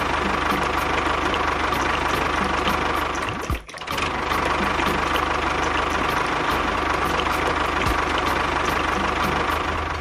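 Small electric motor of a DIY model tractor running steadily with a constant hum. It cuts out for a moment about three and a half seconds in, then runs on.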